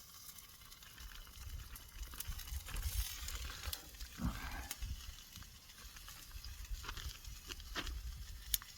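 Chopped chicken thighs sizzling in oil in a pan on a backpacking stove, over a low rumble, with several sharp clicks scattered through.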